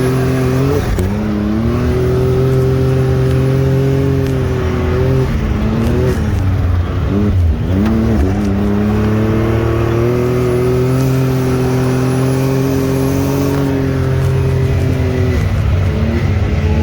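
Side-by-side UTV engine under load on the trail, revs climbing about a second in and holding steady, dipping and picking up again in the middle, then easing off near the end.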